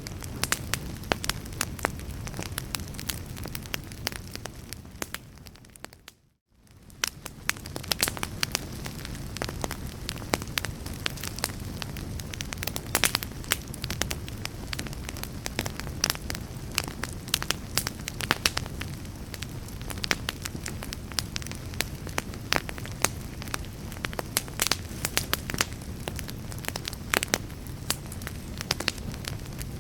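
Fireplace fire crackling: dense sharp pops and snaps over a steady low rumble of flame. About six seconds in it fades out to a moment of near silence, then fades back in, like a loop join in the recording.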